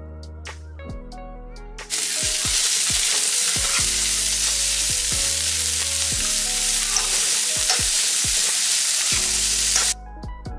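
Sliced sausage with chopped onions and red peppers sizzling in olive oil in a frying pan: a loud, steady sizzle that starts suddenly about two seconds in and cuts off near the end. Background music plays throughout, quieter than the sizzle.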